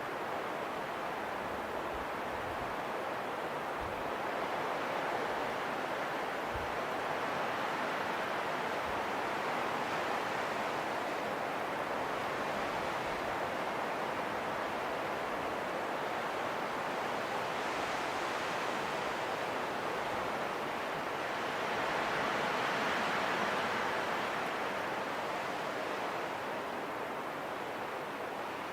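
Wind blowing steadily, rising and falling in slow gusts, with a few low thumps in the first several seconds.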